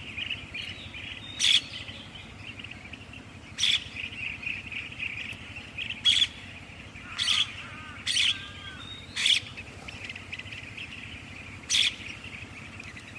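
Small birds chirping: about six short, sharp chirps a second or two apart over a steady, high-pitched background chorus of birdsong.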